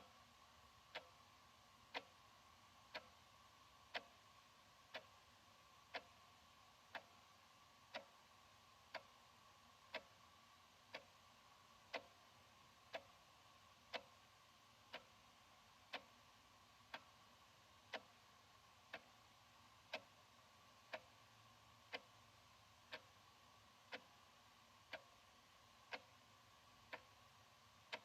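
Analog wall clock ticking, one sharp, even tick each second.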